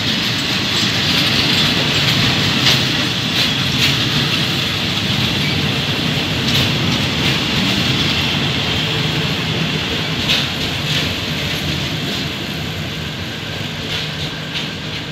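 Passenger coaches rolling past along the platform, with a steady rumble of steel wheels on rail and scattered sharp clacks as the wheels cross rail joints. The sound slowly fades as the train draws away.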